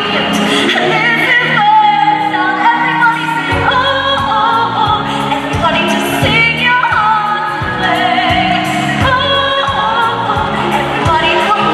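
A song with voices singing over backing music. A steady beat comes in about three and a half seconds in.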